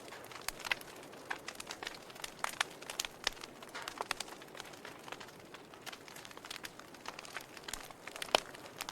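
Wood logs burning in a fireplace, crackling with irregular sharp pops and snaps over a soft hiss, and one louder pop near the end.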